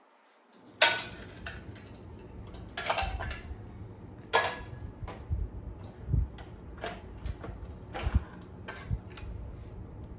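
Irregular metallic clicks, clinks and knocks of hand tools and small parts being worked on a scooter's front assembly, with a few louder clanks spaced a second or so apart.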